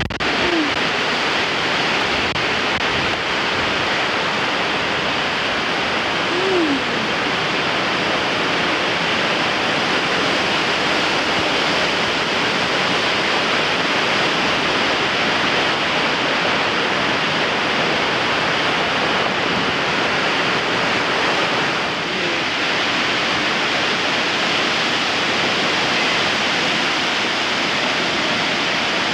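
Strong wind blowing across the microphone: a loud, steady rushing noise that swamps everything else. Two brief falling tones show through faintly, just after the start and about six seconds in.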